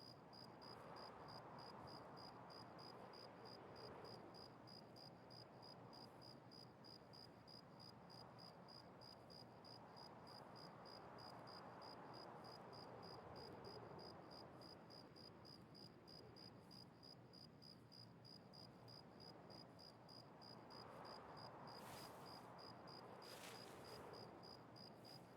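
Near silence: faint room tone with a faint, regular high-pitched pulsing a few times a second, and a few brief faint scratches near the end.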